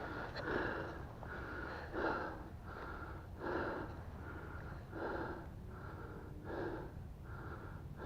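A man breathing heavily in and out, in an even rhythm of about one full breath every second and a half.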